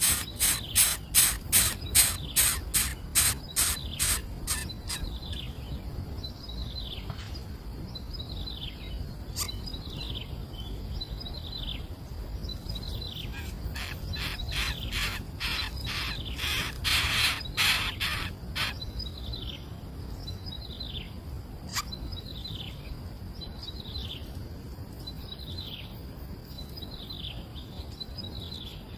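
Birds calling: a fast run of sharp, high chirps at the start and again about halfway through, over a short down-slurred call repeated every second or two.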